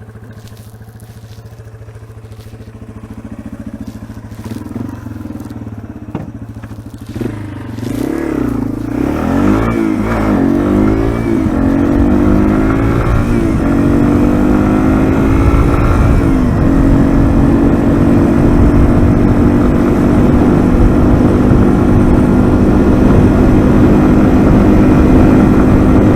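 Yamaha TW200's single-cylinder engine running low and steady at first. About eight seconds in it revs up as the bike pulls away, the pitch rising and falling several times, then settles into a steady, louder note as it rides on.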